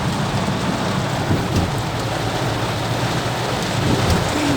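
Heavy rain falling and pattering on surfaces, a steady dense hiss.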